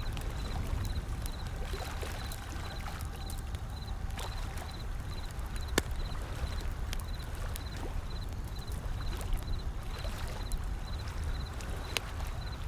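Wood fire crackling with scattered sharp pops over a low, steady wash of ocean waves. A faint high chirping repeats in short groups.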